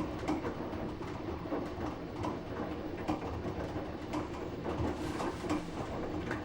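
Samsung WF9904RWE direct-drive washing machine on its main wash cycle: the drum turning the wet laundry, a steady low hum with irregular soft knocks and swishes. The direct-drive motor keeps it quiet.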